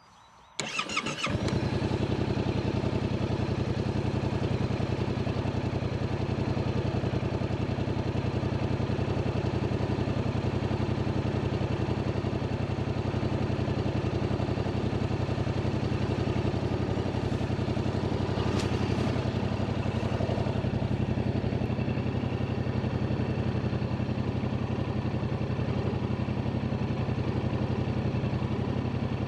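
2025 Yamaha MT-07's 689 cc CP2 parallel-twin engine on its stock exhaust, cranked by the starter and catching about a second in, then idling steadily.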